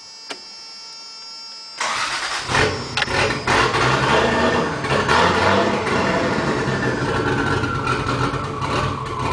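Toyota 7M-GTE turbocharged inline-six starting about two seconds in, surging unevenly for the first second or so, then running. The engine runs badly and wants to die unless the throttle is kept snapping.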